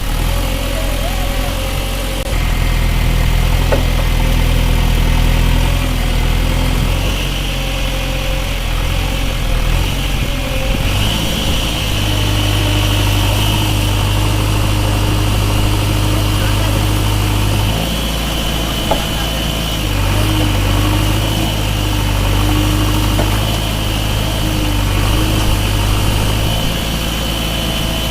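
Tractor engine running steadily, its note stepping up and down several times as the revs or load change.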